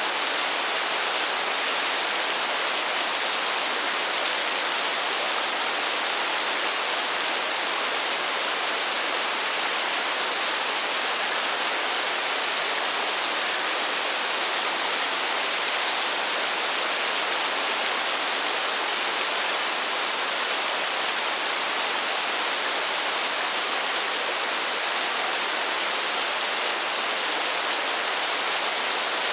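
Steady, dense rain falling in a forest: an even, unbroken hiss with no single drops standing out.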